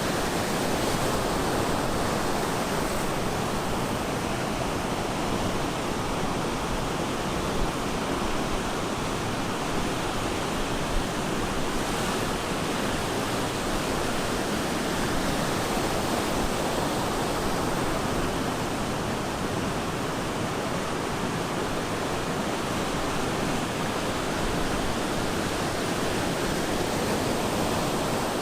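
Ocean surf breaking onto a beach: a steady, dense wash of white water that swells and eases slowly, with no single wave standing out.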